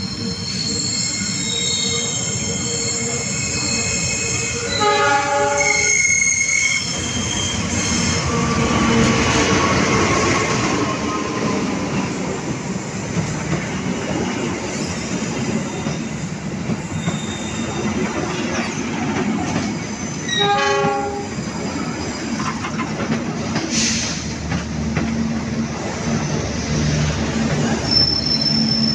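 Diesel-hauled passenger train passing close by, its coaches rumbling and clattering over the rails on a curve, with thin high wheel squeal. Short horn sounds come about five seconds in and again about twenty seconds in.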